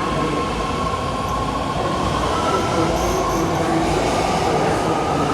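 BART Fleet of the Future subway train pulling out of an underground station: a dense, steady rumble of wheels on rail with high steady tones over it, growing slightly louder as it gathers speed.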